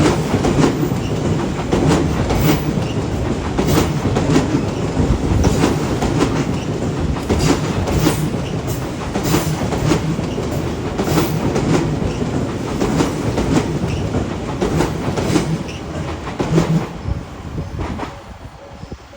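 Odakyu Line electric train running past at a level crossing: a steady rumble with wheels clacking over rail joints in irregular clusters, easing off near the end as the train clears.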